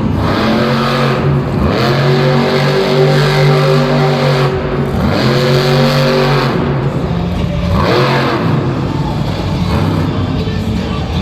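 Monster truck engine revving hard, its pitch climbing and dropping several times as the throttle is opened and released.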